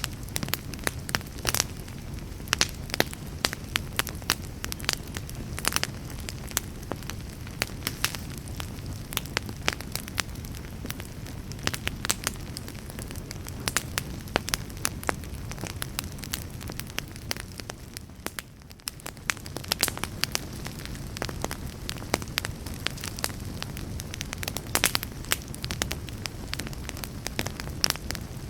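Wood logs burning in a fireplace, crackling with frequent irregular sharp pops over a low steady rumble of the flames. The fire briefly goes quieter about two-thirds of the way in.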